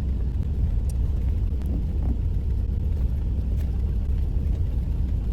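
Steady low rumble of a semi truck's diesel engine idling, heard from inside the cab, with a few faint clicks of things being handled.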